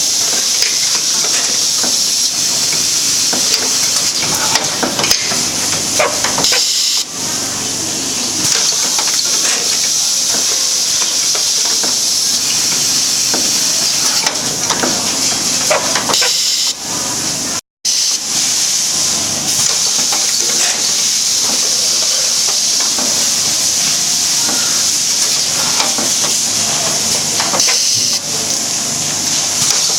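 Automatic vacuum packing machine running, with a loud steady hiss of air and scattered light clicks and knocks from its mechanism. The sound drops out for an instant a little past halfway.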